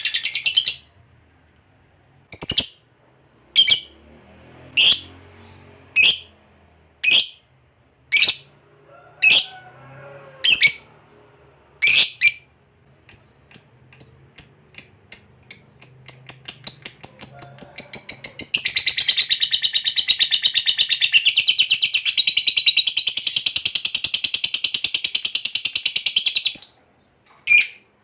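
Lovebird calling: sharp single chirps about once a second, quickening into a fast run of notes and then breaking into a long, unbroken rapid trill of about eight seconds, the prized 'ngekek panjang' long chatter, followed by one more chirp near the end.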